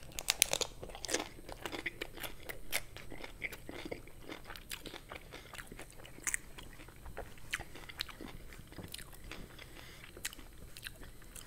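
Crunching and chewing of a hard-shell taco: irregular crisp crunches as the fried corn shell is broken down in the mouth, densest in the first few seconds and thinning out to softer, sparser chewing later.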